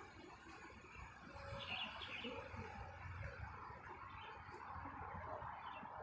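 Faint outdoor garden ambience: a few short bird chirps, a cluster of them about a second and a half in, over a steady low background rumble.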